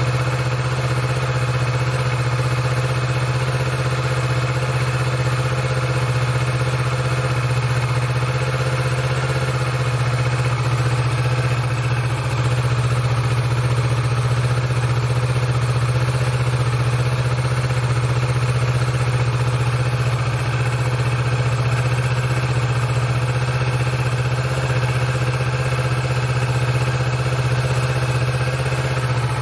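2020 Kawasaki Vulcan S's 649 cc parallel-twin engine idling steadily through its stock exhaust, warming up after a cold start.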